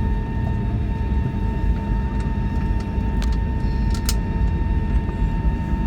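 Airbus A320 cabin noise during taxi: a steady low rumble with a constant mid-pitched tone running through it. A few faint clicks sound, the sharpest about four seconds in.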